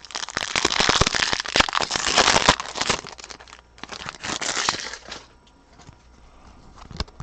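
Foil trading-card pack wrapper being torn open and crinkled, in a dense crackling spell about three seconds long and a shorter one about four seconds in, followed by a few light clicks.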